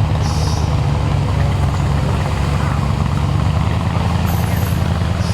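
Off-road 4x4 vehicle engine running steadily with a low drone, with two short high hisses, one about half a second in and one about four seconds in.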